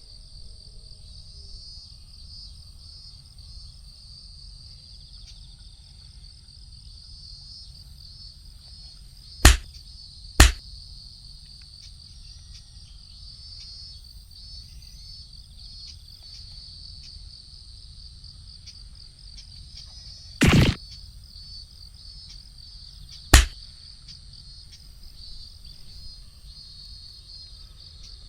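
Insects chirring steadily in a continuous pulsing drone, crickets or similar. It is cut by four sharp, loud knocks: two about a second apart around a third of the way in, a slightly longer one about two-thirds in, and a last one a few seconds after that.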